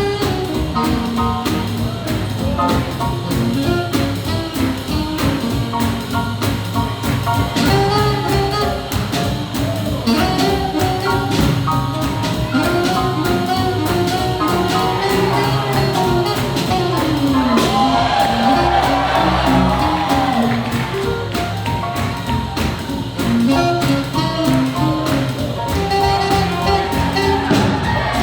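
Live swing jazz band playing, with horns carrying bending melody lines over a steady beat.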